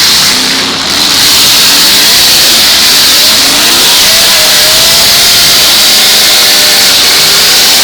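Engines of several full-size demolition derby cars running and revving together, very loud, with several rising revs overlapping.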